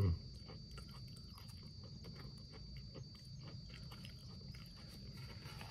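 Thin, crispy potato chips being chewed: faint, irregular crunching over a steady low hum and a thin high whine.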